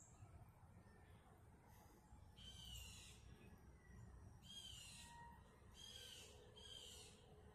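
A bird calling faintly four times, each call a short raspy note about half a second long, the first about two seconds in and the last three close together near the end.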